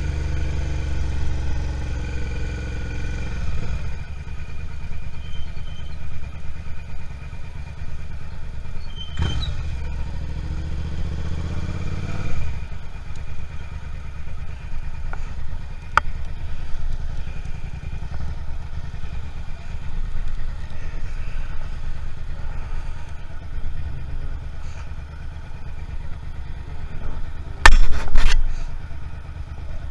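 Suzuki SV650's 645 cc V-twin engine running under the rider, its pitch shifting with the throttle during the first few seconds and again about ten seconds in, then settling to a low, uneven rumble. Two loud knocks come close together near the end.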